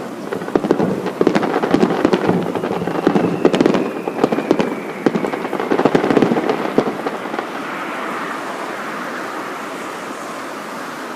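Fireworks crackling in rapid, dense succession, with a falling whistle partway through. The crackling dies away about seven seconds in, leaving a steady rushing noise.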